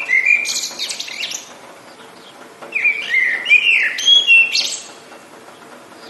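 A songbird singing two phrases, each a run of sliding whistled notes that ends in a higher, buzzier flourish, with a few seconds' pause between them; a faint steady background hiss runs underneath.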